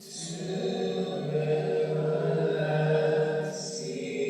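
Many voices singing together in long held notes, like a church congregation chanting a sung line.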